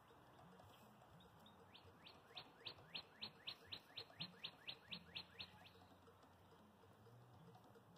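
A songbird singing faintly: a run of about fifteen quick down-slurred notes, about four a second, starting softly and growing louder, then stopping past the middle.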